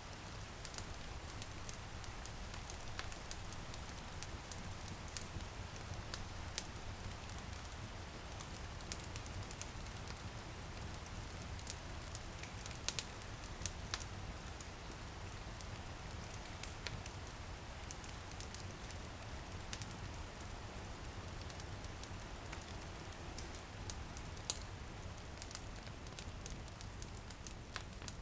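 Wood fire crackling, with sharp pops scattered irregularly throughout, over a steady hiss of light drizzle on a window pane and a low steady rumble.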